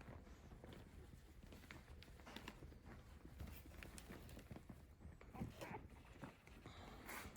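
Faint scratching and rustling with small irregular taps from a dog moving about, with a short louder scuffle near the end.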